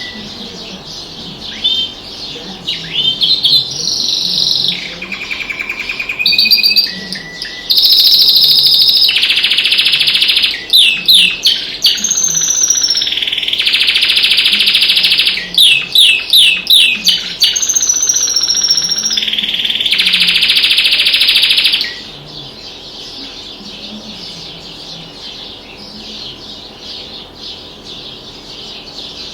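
Domestic canary singing loudly in long phrases of rapid rolling trills and quick down-sweeping notes, stopping about two-thirds of the way through. After that only fainter chirping of other birds remains.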